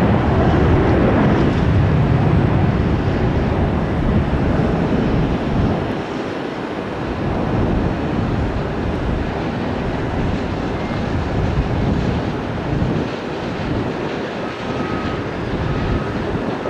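Jet airliner engines rumbling as a plane passes close by, loudest in the first six seconds and then fading to a lighter roar.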